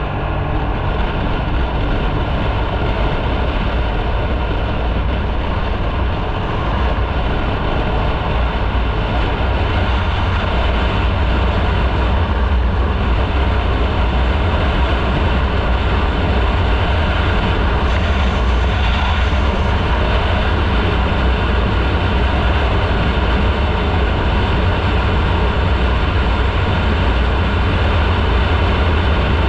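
Motorcycle engine running steadily with wind and road noise, heard from a camera on the bike while riding at a steady speed. The level rises slightly a few seconds in and then holds steady.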